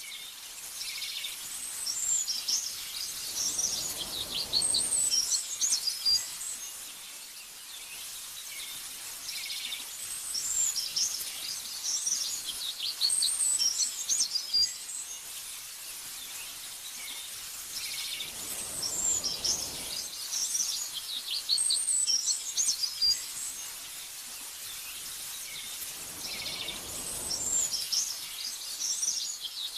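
Small birds chirping and twittering in bouts of rapid high notes that come back about every eight seconds, over a soft steady hiss, with a few brief swells of gentle wind.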